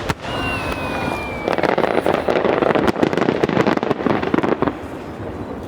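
Fireworks: a whistling shell with a slightly falling tone, then about three seconds of dense crackling from many small bursts, thinning out near the end.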